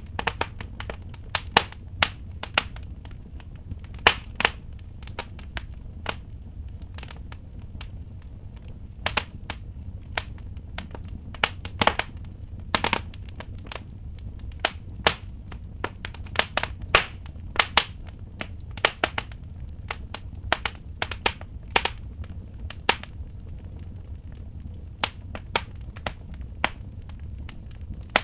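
Wood fire in a fireplace crackling, with sharp pops coming at irregular intervals over a low steady rumble.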